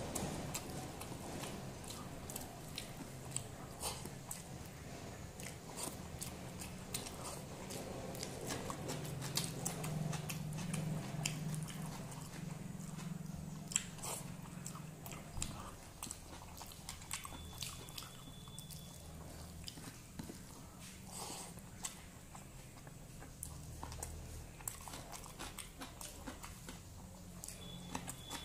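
A person chewing and biting mouthfuls of rice with dal and fried and raw vegetables, eaten by hand. The sound is a close-up run of frequent irregular wet mouth clicks and crunches.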